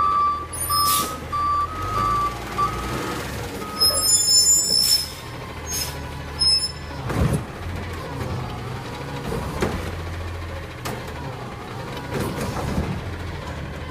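Recycling garbage truck backing up with its backup alarm beeping over the low rumble of its diesel engine, then a loud hiss of air, like an air brake, about four seconds in. A few sharp hisses and clunks follow as the engine keeps running.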